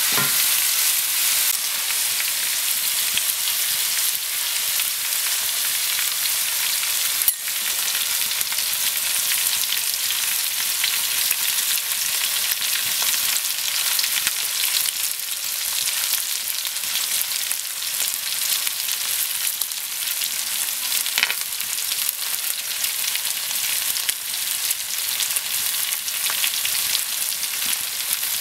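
Mutton pieces and onions sizzling steadily in hot oil in a wok over a wood fire, stirred with a wooden spatula at first. A single sharp click comes about seven seconds in.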